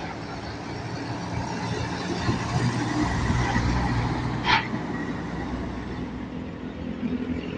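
Road traffic with a truck's diesel engine rumbling past, swelling louder around the middle, and a brief sharp high-pitched sound about four and a half seconds in.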